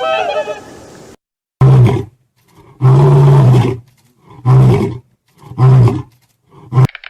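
A large animal roaring: five loud, low-pitched calls with short gaps between them, the second the longest and the last the shortest. A higher-pitched call from the previous clip ends about a second in, just before them.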